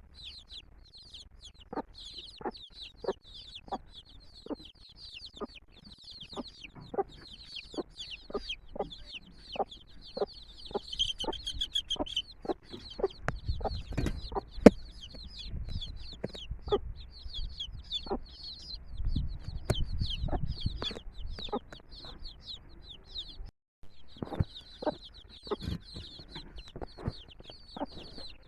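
A brood of domestic chicks peeping continuously, a dense chorus of short, high, falling cheeps. Mixed in are short sharp sounds, about one or two a second, in keeping with the mother hen's clucks. Twice in the middle a low rumble rises under them, and the sound cuts out for a moment about 23 seconds in.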